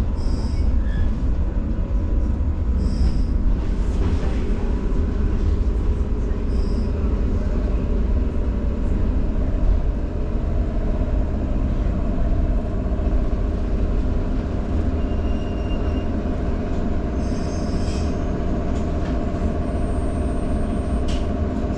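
115 series DC electric multiple unit running along the line: a steady rumble of wheels on rail and traction motors. A few brief high squeaks come in the first seven seconds, and a steady motor hum sets in about ten seconds in.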